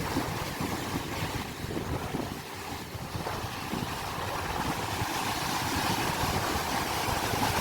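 Sea waves washing on the shore, a steady rushing noise that eases off about two and a half seconds in and then swells again, with low rumble from wind on the microphone.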